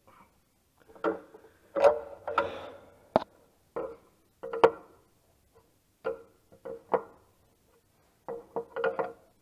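Irregular sharp metal clinks and knocks, each ringing briefly, about a dozen in all, from tools and metal parts being handled while dual wheels are fitted.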